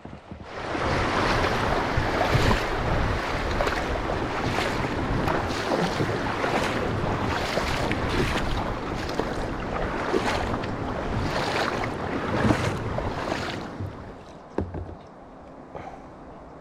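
Wind rushing over the microphone and water noise from a kayak being paddled, with a splash about once a second from the paddle strokes. The rush drops away near the end, leaving a few small knocks.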